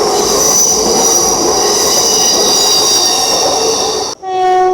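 Class 802 bi-mode train passing, its wheels squealing on the rails with a steady high-pitched squeal of several tones over the rumble of the train. The sound cuts off abruptly about four seconds in, and a short steady pitched tone follows.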